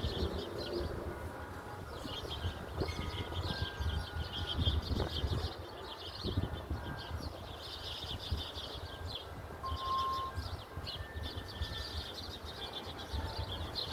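Birds chirping in repeated bursts of a second or two, over a steady low rumble.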